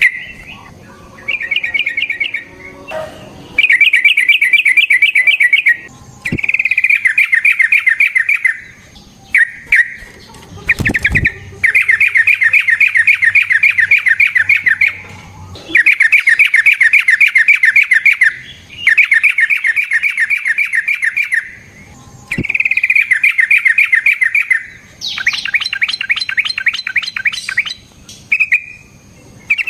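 Yellow-vented bulbul (trucukan) singing loud, long rolling phrases of fast trilled notes, repeated in bouts of two to four seconds with short pauses between.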